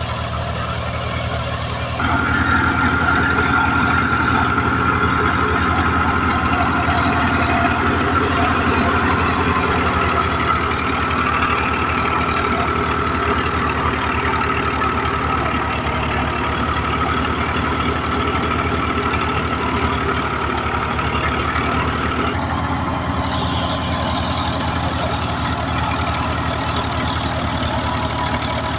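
Al-Ghazi tractor's diesel engine running steadily with a high whine over it, growing louder about two seconds in and easing back about three quarters of the way through.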